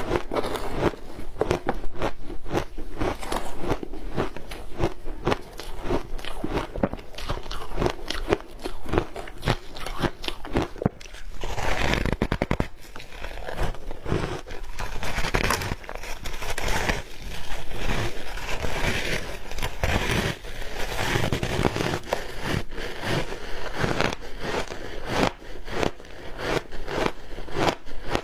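Close-up crunching of ice coated in matcha green-tea powder being bitten and chewed: dense, irregular crackling strokes that keep going, thicker in a few stretches.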